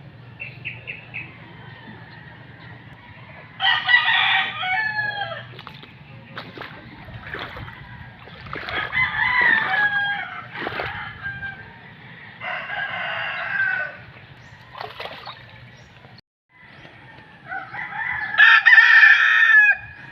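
Rooster crowing four times, each crow a long call of a second or two. The last crow is the loudest. A faint low hum runs underneath.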